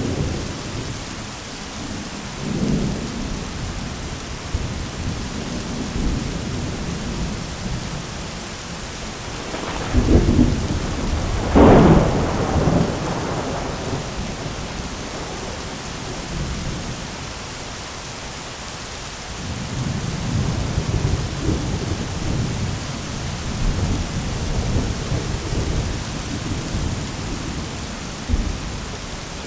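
Thunderstorm: steady heavy rain with rolling thunder, two louder cracks of thunder about a third of the way in, and a long low rumble near the end.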